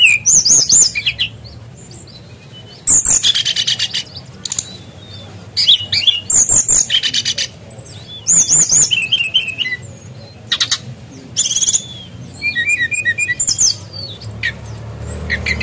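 An SRDC songbird singing loudly in short bursts of rapid, high-pitched chirps and trills, repeated every couple of seconds. Its song is filled in with mimicked kingfisher (tengkek udang) calls.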